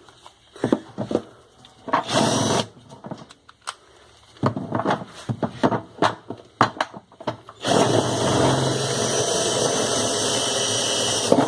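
Power drill boring a small hole beside a washing machine's agitator: a short burst about two seconds in, scattered clicks and knocks of handling, then a steady run of about four seconds near the end.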